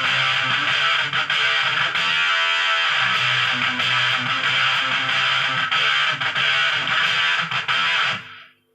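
Electric guitar played through an MXR Sub Machine octave fuzz pedal: a heavily fuzzed, strummed riff with a thick low end. It is cut off sharply about eight seconds in and falls to near silence.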